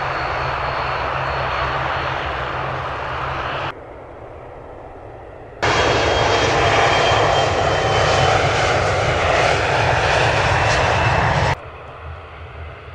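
Airliner engine noise: a loud rushing sound with a thin high whine on top, in two hard-cut stretches. The first lasts about four seconds; the second, louder one starts after a quieter gap of about two seconds and lasts about six.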